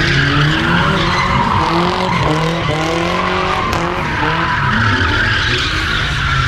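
A car drifting: tyres squealing continuously while the engine revs up and down again and again.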